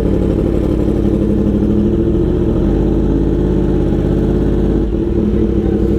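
Yamaha R1 inline-four engine running steadily while riding, with a brief dip in the sound about five seconds in.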